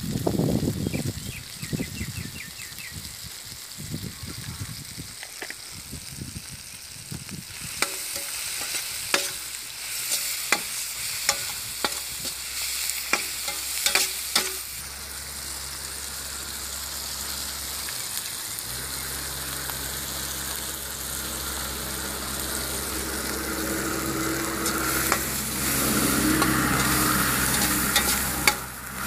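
Onions, tomatoes, chillies and curry leaves sizzling as they fry in coconut oil in a large metal wok over a wood fire, stirred with a metal slotted ladle that clicks and scrapes against the pan. The sizzling grows louder about a quarter of the way in.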